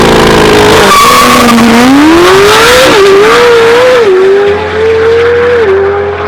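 Supercar engine accelerating hard through the gears, its note climbing and then dropping sharply at each upshift, several times over.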